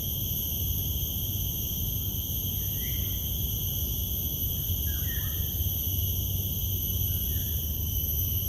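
A steady, high-pitched chorus of insects, several pitches held at once, over a low rumble of wind, with a few short faint bird chirps.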